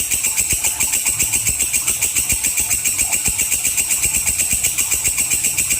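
Walang kecek insect calling steadily: a high-pitched, rapidly pulsing buzz of about eight even pulses a second, going on without a break.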